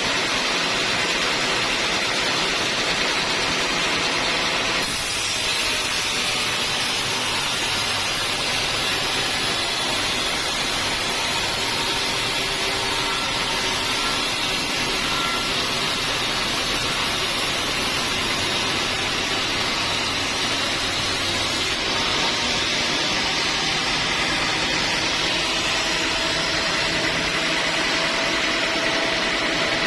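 Sawmill saw machinery running with a steady, loud, noisy whir. The sound changes abruptly about five seconds in and again a little past twenty seconds.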